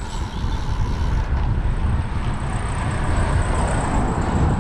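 Wind rushing over the microphone of a camera carried on a moving bicycle: a steady low rumble with road noise.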